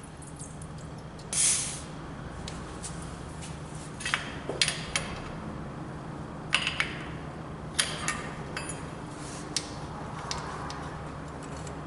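Scattered sharp metal clicks and clinks, as of tools being handled, with a short hiss about a second and a half in, over a steady low hum.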